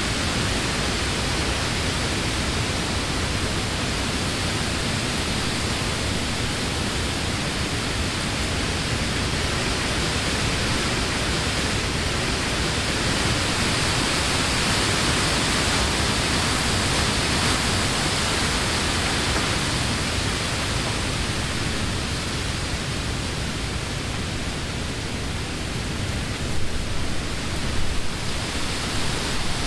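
Summer wind blowing steadily through leafy trees, a continuous rushing of leaves, swelling slightly in the middle, with a few brief louder gusts near the end.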